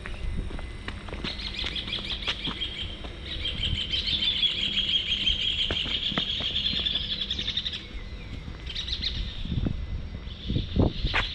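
Birds chirping in a dense, continuous chatter that fades out about eight seconds in and picks up again near the end, over a low background rumble. A couple of sharp knocks sound near the end.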